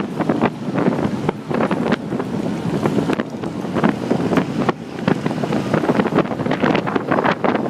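Wind buffeting a phone's microphone, a continuous rough rushing noise full of crackles.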